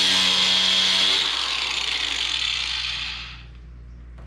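Power tool with a cutoff wheel cutting through a plastic body panel with a high whine, then released about a second in and spinning down, fading out over the next two seconds.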